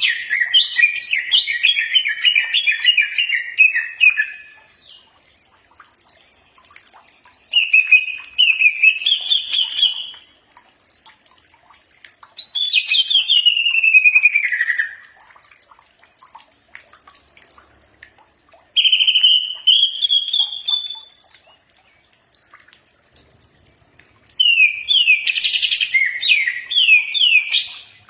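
Cucak ijo (green leafbird) singing in five separate bursts of quick, high notes with pauses between them. One phrase slides down in pitch and another rises.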